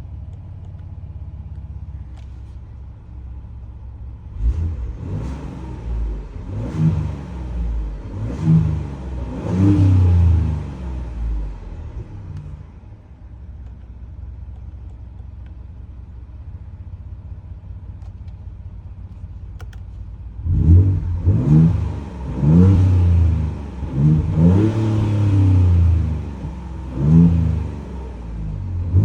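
Ford Ranger Raptor engine and exhaust idling, then blipped in about five short revs. It settles back to idle for several seconds, then is revved again in a second, somewhat louder run of about six blips.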